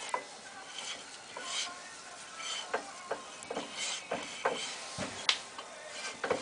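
Irregular metallic clicks and knocks, some with a short ring, from hand tools and brake parts being handled during work on a car's front brake.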